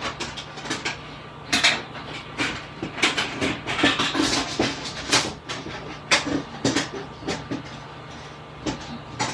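Thin 0.2 mm steel sheet and frame of a Picogrill 398 fire pit being fitted together by hand: an uneven run of light metal clicks, taps and rattles as the sheet is hooked onto the frame's slots.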